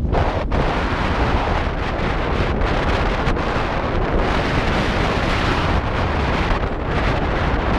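Strong wind buffeting the microphone: a loud, steady rumbling roar, heaviest in the low end.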